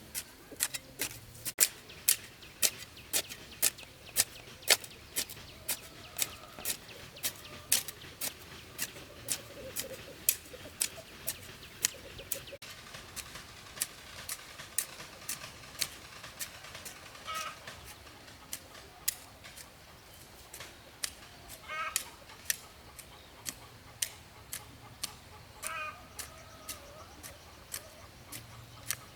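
Chickens clucking now and then over a steady run of sharp knocks, about two to three a second.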